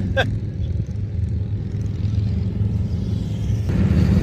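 Steady low rumble of motor vehicle traffic, growing louder near the end as a vehicle comes closer.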